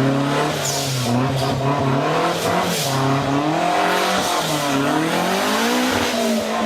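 Off-road 4x4 engine revving under load, its pitch rising and falling repeatedly.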